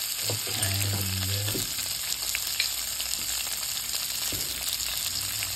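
Sliced onion, capsicum and curry leaves frying in hot oil in a nonstick pan, a steady sizzle with a few faint crackles. A brief low hum sounds in about the first second and a half.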